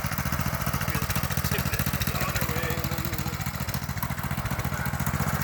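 Small single-cylinder mini bike engine idling with a steady, rapid putter.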